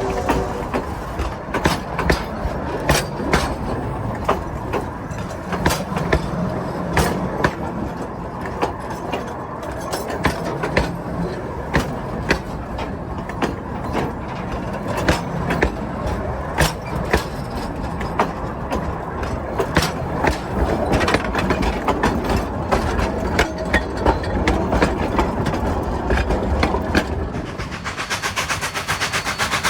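Narrow-gauge excursion train rolling past behind the K36 steam locomotive, with a steady rumble and its wheels clicking and knocking over the rail joints about once a second. Near the end the sound changes abruptly to a fast, even rattle.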